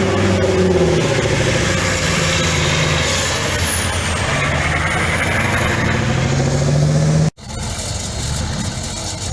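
Truck engine running hard off-road, its pitch rising and falling as it revs. The sound cuts off abruptly about seven seconds in, then comes back a moment later at a steadier, slightly lower level.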